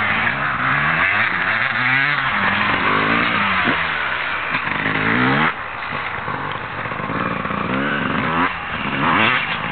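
Motocross dirt bike engines revving, their pitch rising and falling again and again as the riders work the throttle. The level drops suddenly about five and a half seconds in.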